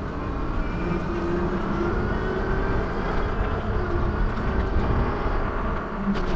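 Steady vehicle rumble with a faint, slowly drifting whine over it.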